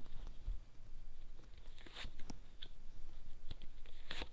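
Lenormand cards being drawn from the deck and laid out on a table: soft scattered clicks and taps of card handling, with sharper ticks about two seconds in and near the end.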